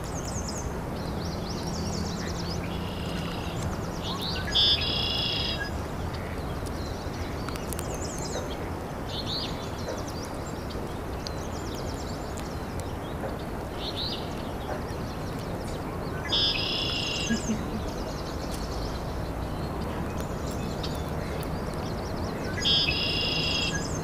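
Wild birds calling in the surrounding woods: scattered short high chirps, and a louder short call heard three times, about four seconds in, about sixteen seconds in and near the end, over steady outdoor background noise.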